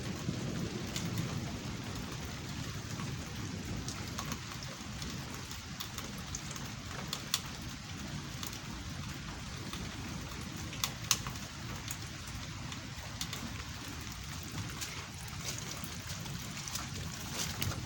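Steady thunderstorm rain falling, with scattered single drops clicking sharply close by and a low steady rumble underneath.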